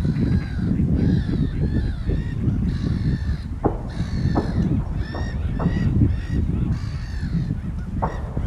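A group of waterfowl calling over and over, many short honking calls overlapping, over a steady low rumble.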